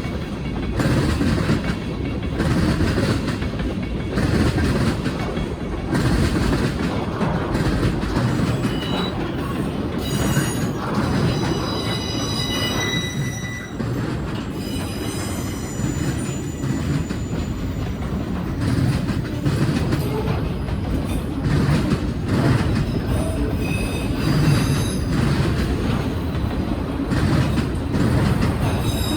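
Freight train cars rolling past with a steady rumble and clickety-clack over rail joints. High-pitched wheel squeals come and go, mostly in the middle and again near the end.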